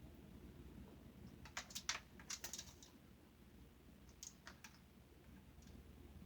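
A white-bellied caique bathing in a shallow dish of water: a few quick, soft splashes and taps in small clusters, about one and a half to two and a half seconds in and again around four seconds in, against near silence.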